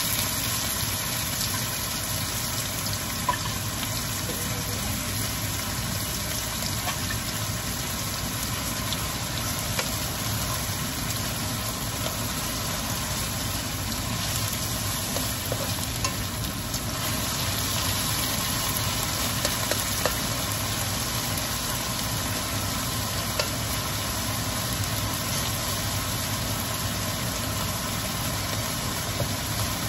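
Canned tuna and sliced onions sizzling in a hot steel wok, with an occasional tap or scrape of a spatula stirring them. A steady low hum runs underneath.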